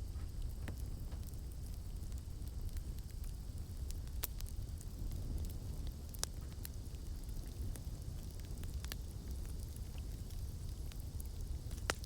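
Campfire burning: a steady low rumble of flames with scattered sharp crackles and pops of burning wood, one every second or two.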